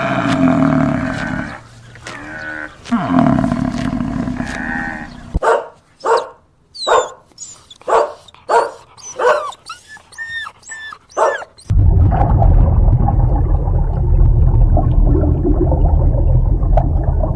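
Animal calls in three parts: a few long, drawn-out calls, then a run of about a dozen short, sharp bark-like calls, then a steady low rumbling growl.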